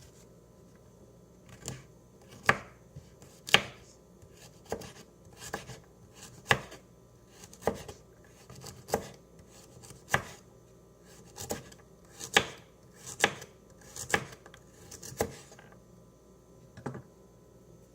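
Knife chopping food with slow, separate chops, about one a second, stopping near the end.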